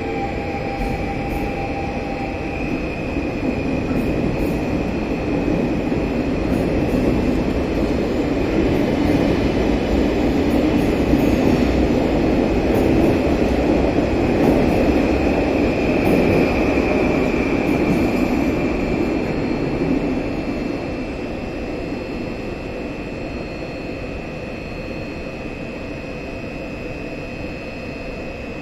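Stadler FLIRT ED160 electric multiple unit departing from an underground platform. The rumble of its wheels on the rails builds as it picks up speed past the platform, stays loudest for several seconds in the middle, and drops away after about twenty seconds as the last cars go by.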